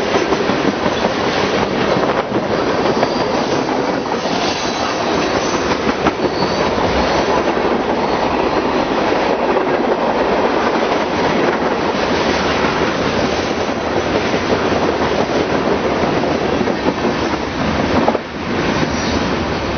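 Freight train cars rolling past close by, the wheels clattering steadily over the rails, with a faint high wheel squeal a few seconds in.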